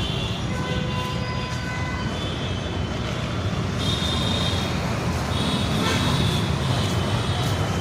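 Steady rumble of road traffic and vehicle engines running, with short high-pitched squeaks and tones here and there.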